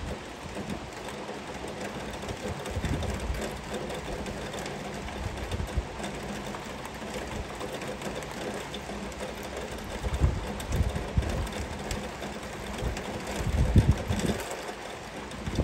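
Heavy rain falling steadily, a constant hiss, with low gusty rumbles several times, the strongest near the end.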